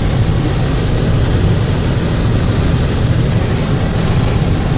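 Suzuki GSX-R1000 motorcycle with a non-stock aftermarket exhaust running at highway speed: a loud, steady, low-heavy drone with no change in pitch, mixed with road and wind noise.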